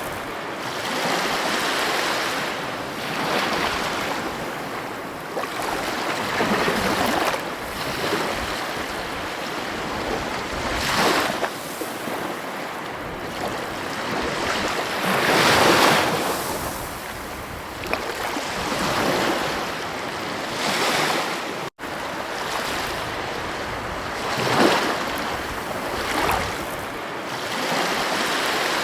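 Ocean waves breaking and washing up a beach: a steady rushing with a swell every few seconds. The sound cuts out for an instant about three-quarters of the way through.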